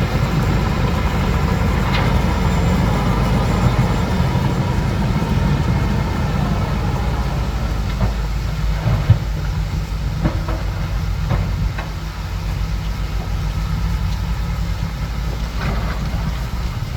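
Bulldozer's diesel engine running steadily at work, with a few sharp knocks near the middle.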